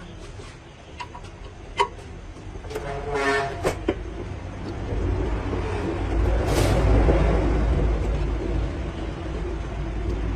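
A vehicle horn sounds once, briefly, about three seconds in. Then a heavy engine rumble builds and holds loud, with a short hiss partway through.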